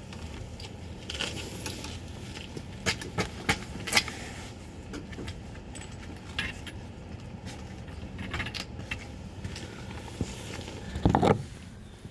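Light metallic jingling and scattered clicks over a steady low vehicle hum, with a louder rustling knock about a second before the end.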